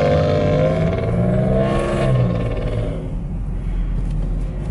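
Car engines running, one revving with its pitch rising and falling over the first two seconds or so, then easing back, over a steady low engine rumble.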